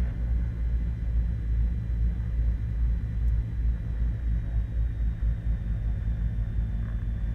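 Beechcraft Baron G58's twin piston engines idling after the run-up, a steady low rumble with a faint high steady whine above it.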